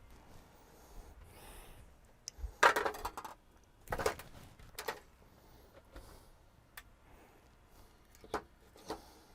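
Small hard objects being handled on a workbench: a brief clatter about two and a half seconds in, another about a second later, then a few light single taps.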